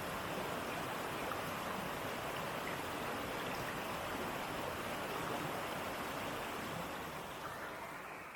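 Steady rush of flowing water from a forest stream, fading out near the end.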